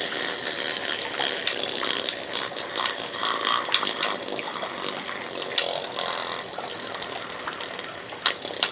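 Two Beyblade spinning tops whirring against each other in a wet stadium, with sharp clicks as they collide.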